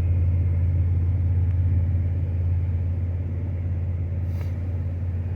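A car engine running steadily at raised revs, held at about 2,000 RPM to charge a dead battery during a jump start. Its deep drone eases slightly about halfway through.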